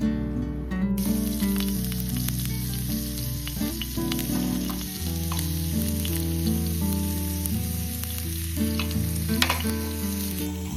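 Food frying and sizzling in a hot pan, a steady hiss that starts about a second in, with background music underneath.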